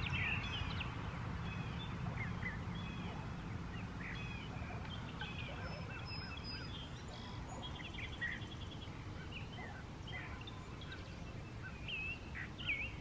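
Faint outdoor ambience: birds chirping and whistling in many short calls throughout, over a low steady rumble.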